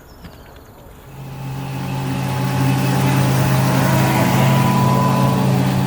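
Outboard motor on a small inflatable boat running at a steady pitch; it comes in about a second in, grows louder and then holds steady as the boat gets under way.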